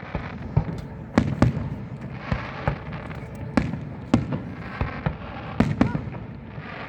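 Fireworks going off: a rapid, irregular series of sharp bangs, about a dozen, with crackling between them.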